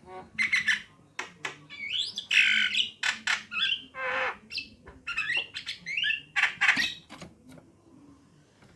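Javan mynas calling: a rapid jumble of harsh squawks, chattering notes, short rising whistles and sharp clicks, stopping about seven seconds in.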